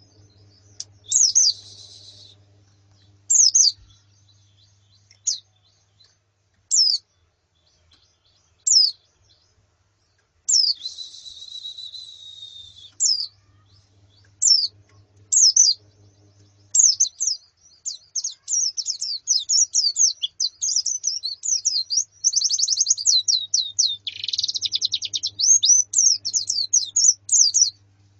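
Pleci (white-eyes, Zosterops) calling, as female and colony calls: sharp high chirps a second or two apart, then, about halfway in, a fast continuous run of chirps and trills as several birds call together.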